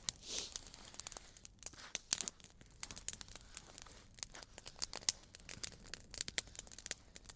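Small wood campfire crackling, with irregular sharp snaps and pops.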